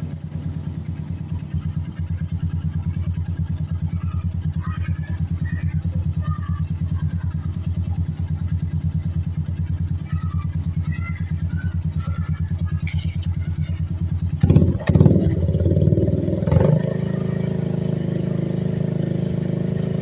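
Suzuki Shogun Axelo 125's single-cylinder four-stroke engine idling through an aftermarket Yoshimura exhaust with an even pulsing beat. About 15 s in it is revved in a couple of short blips, then settles back to a steady, slightly fuller idle.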